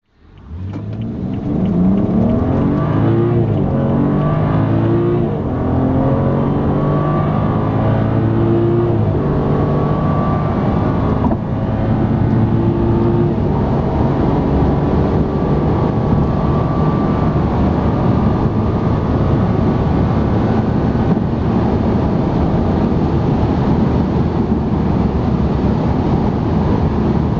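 BMW 335i F30's turbocharged straight-six under hard acceleration, its pitch climbing in several steps as the gearbox shifts up, then giving way to loud, steady wind and road noise at high speed.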